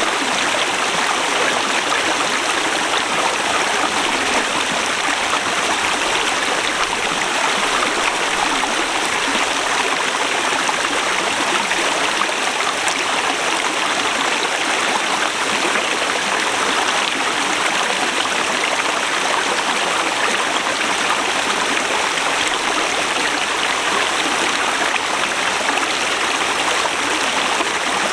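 Forest river rushing steadily, an even, unbroken sound of flowing water.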